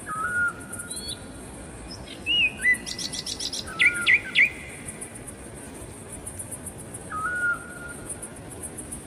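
Forest birds calling. A short whistled note comes near the start and again about seven seconds in, and a flurry of chirps and rising whistles from several birds comes about three to four and a half seconds in.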